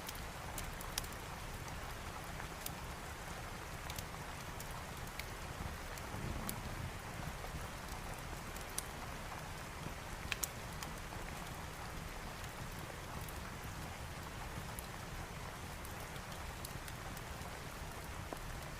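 Steady rain hissing, mixed with a fireplace's scattered sharp crackles, over a low rumble that swells briefly about six seconds in.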